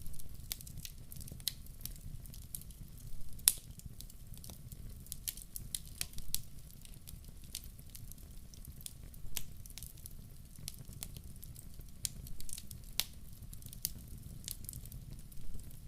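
Wood fire crackling in a fireplace: irregular sharp snaps and pops over a low steady rumble, with louder pops about three and a half seconds in and again about thirteen seconds in.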